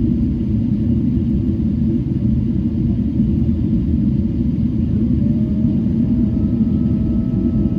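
Steady cabin rumble of a Boeing 777-300 airliner descending on approach. About five seconds in, a faint tone rises and then holds.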